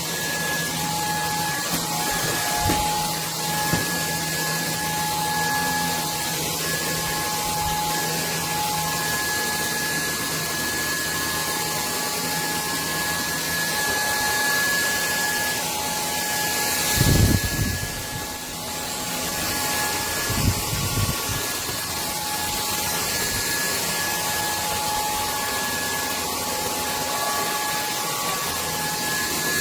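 Cordless stick vacuum cleaner running steadily: a constant high motor whine over the rush of air, with a couple of low bumps about halfway through.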